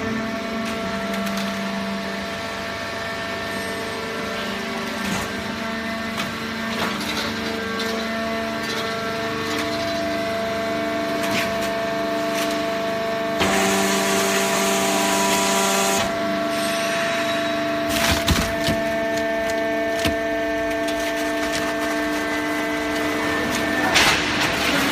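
Plastic bottle baler machine running, with a steady mechanical whine whose pitch shifts every few seconds and scattered cracks and knocks. A hiss lasts a couple of seconds midway, and louder knocks come about two-thirds of the way in and near the end.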